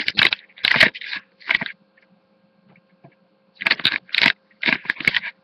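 Two clusters of short scraping and rustling noises, one at the start and one from a little past halfway to near the end, with a quiet gap between.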